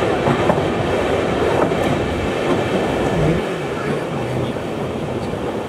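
Passenger train running along the track, heard from inside the coach: a steady rumble of wheels and carriage with a few faint clicks.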